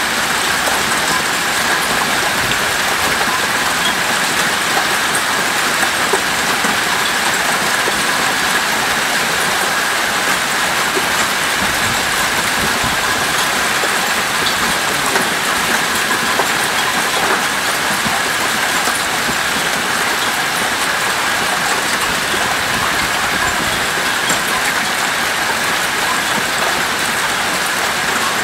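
Heavy rain pouring down steadily in a storm, an even, unbroken hiss.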